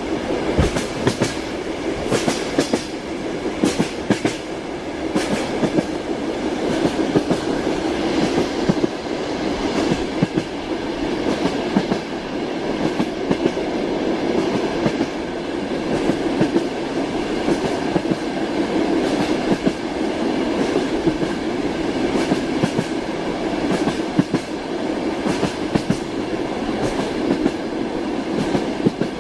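Train wheels clattering over rail joints: a steady rolling rumble of a moving railway car with a run of sharp clicks, busiest in the first several seconds.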